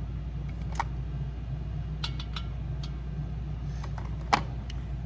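Scattered light clicks and clinks of small tools and metal heater parts being handled, with a sharper knock about four seconds in, over a steady low hum.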